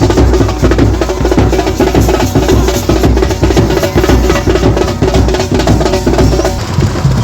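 Loud Pahari wedding band music with heavy, fast drumming over a sustained melody.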